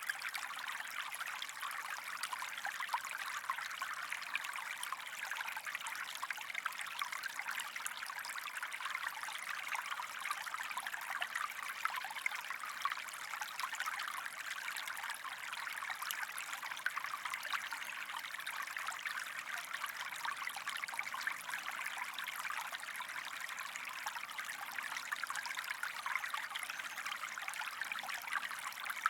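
Water of a small stream running and trickling steadily, an even splashing rush with most of its sound in the middle and upper range.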